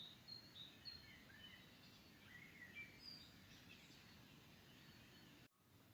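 Faint birds chirping in short, scattered calls over a low background hiss; the sound cuts off abruptly about five and a half seconds in.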